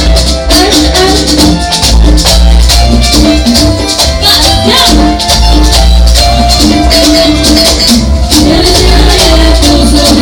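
A Latin dance band playing loudly through a PA system, with maracas shaking a steady beat over a heavy, pulsing bass line and sustained melody notes.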